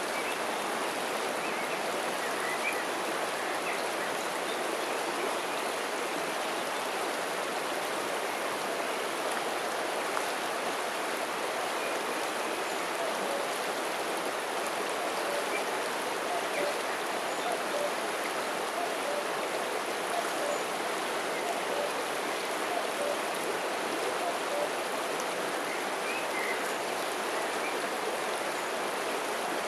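River water flowing and rippling in a steady, even rush.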